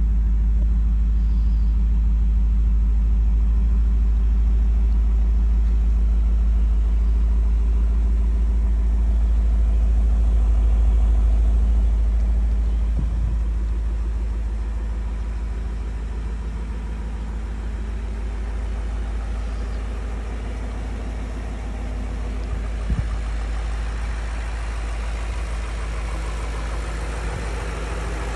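BMW E39 M5's 4.9-litre S62 V8 idling steadily with a low, even rumble, loudest at first and a little softer in the middle before rising again near the end.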